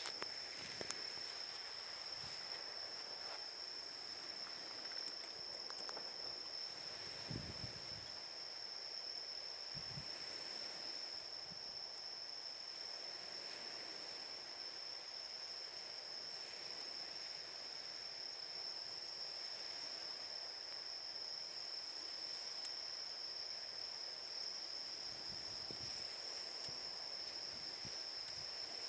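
Crickets trilling in one steady, unbroken high tone, with a few faint low thumps.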